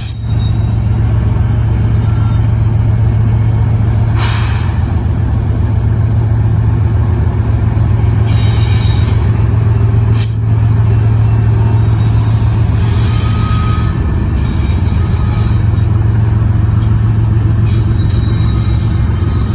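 Diesel locomotive engine running with a steady low drone as the train backs up, with a few brief high-pitched hisses or squeals about 4, 9 and 13 seconds in.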